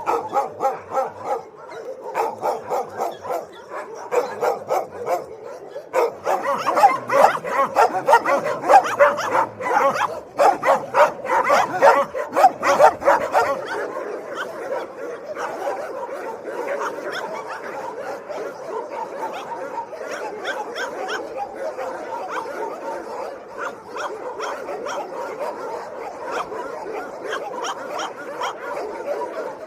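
Dogs barking in rapid, repeated barks. The barks are loudest and sharpest from about six to thirteen seconds in, then settle into a quieter, steadier run of quick barking.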